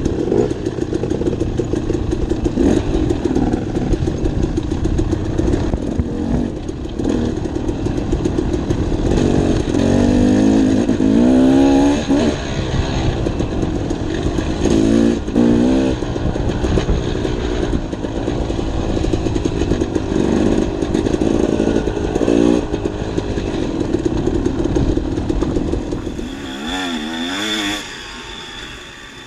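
Dirt bike engine running on a trail ride, its revs rising and falling again and again as the rider works the throttle. Near the end the engine note drops and it gets quieter.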